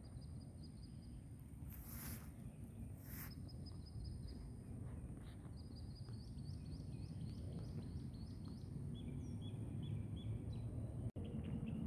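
Small birds singing: thin high whistled notes, a quick run of rising chirps through the middle, and a few lower repeated notes near the end. A steady low rumble lies under them, with two short rustles about two and three seconds in.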